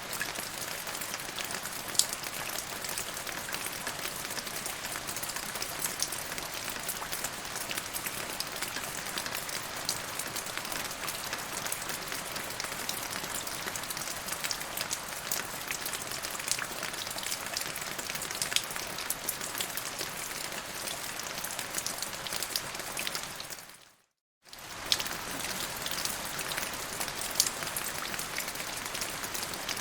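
Steady rain falling on surfaces, an even hiss with many small drop ticks, cutting out briefly about three-quarters of the way through before resuming.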